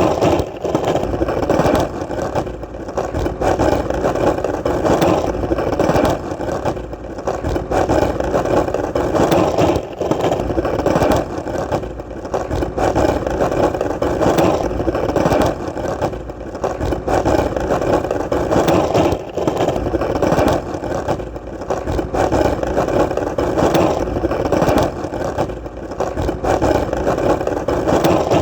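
Skateboard wheels rolling on hard ground: a steady rumble that dips briefly about every two seconds.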